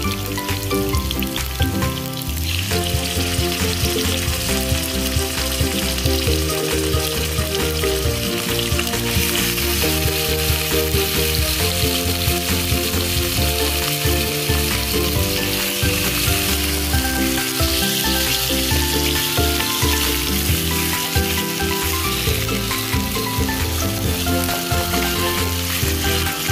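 Hot oil sizzling in a nonstick pan as sliced onions and garlic sauté and pieces of marinated chicken fry. The sizzle grows louder a few seconds in and again partway through. Background music plays underneath.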